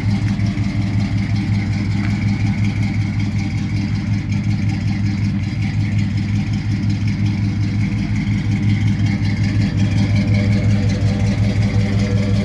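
1984 Chevrolet C10's 305 small-block V8 idling steadily while it warms up after a cold start.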